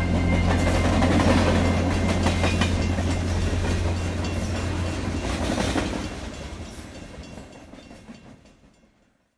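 Train rolling on the rails, its wheels clacking over the track under a low steady hum that drops away about five seconds in, then fading out to silence near the end.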